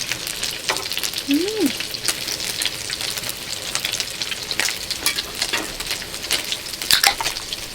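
Makchang sizzling and spattering in a hot pan, a steady hiss broken by frequent sharp pops.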